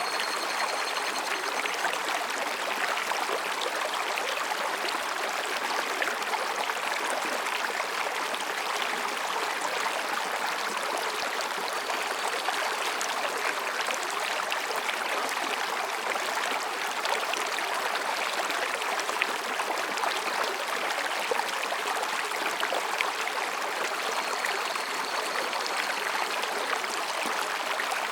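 Mountain stream flowing and splashing over rocks, a steady, even babbling. A faint high thin call sounds briefly at the start and again near the end.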